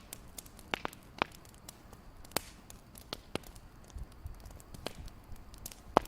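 Wood fire crackling, with sharp pops at irregular intervals, the loudest near the end.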